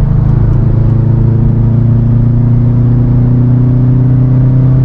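Subaru WRX STI Type RA's turbocharged 2.5-litre flat-four pulling under light throttle, its pitch rising slowly and steadily, heard through aftermarket axle-back exhaust over tyre and road noise.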